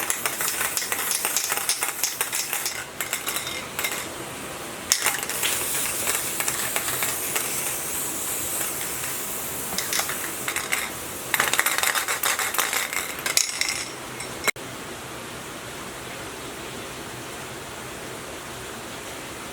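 Crackling, scraping metalwork noise with fast irregular clicks over a hiss. It cuts off abruptly about fourteen and a half seconds in, leaving a steady hiss.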